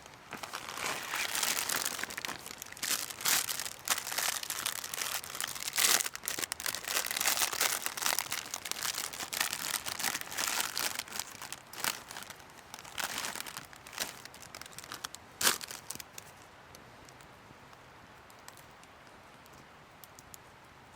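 Crinkling and rustling with many sharp crackles, as of something being handled and crumpled, stopping about sixteen seconds in; after that only a faint steady background remains.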